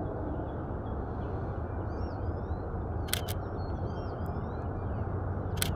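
Shutter of a Canon EOS RP camera firing twice, about three seconds in and again near the end, each shot a quick double click. Small birds chirp repeatedly over a steady low outdoor noise.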